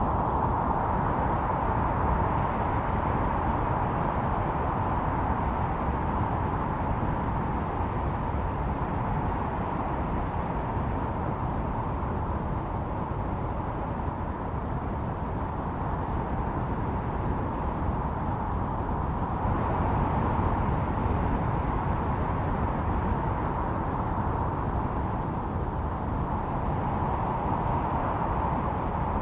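Snowstorm wind blowing steadily, with a deep rumble under a constant howl. It swells in a stronger gust about two-thirds of the way through.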